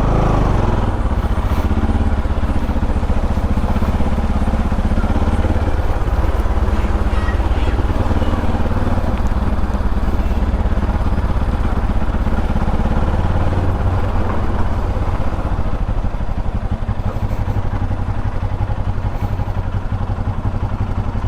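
Bajaj Pulsar NS200's single-cylinder engine running steadily as the motorcycle is ridden, a low even drone.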